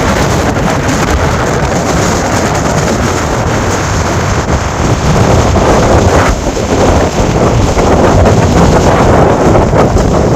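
Strong cyclone wind blasting the microphone in a loud, continuous rush, growing louder about halfway through.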